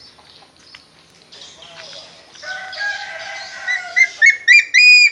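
Bird calling: a drawn-out call starts about halfway in, then four short, shrill notes rise in pitch in quick succession near the end.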